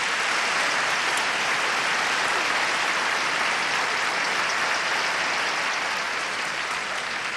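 Large theatre audience applauding steadily, a dense wash of clapping that tapers slightly near the end.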